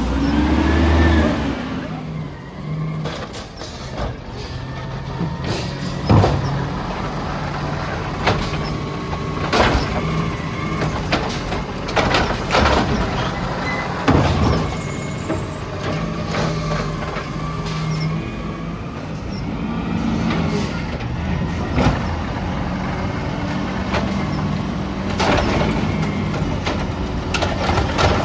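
Peterbilt 320 garbage truck running, with its engine hum steady and a series of sharp clanks and short hisses breaking in every few seconds.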